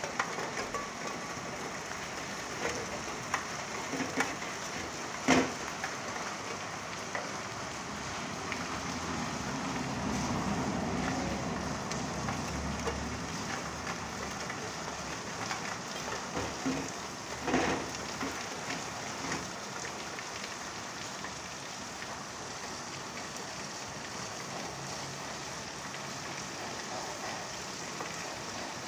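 Steady rain falling, an even hiss broken by a few sharp knocks of drops striking a surface, the loudest about five seconds in and again about two-thirds of the way through. A low rumble swells and fades between them.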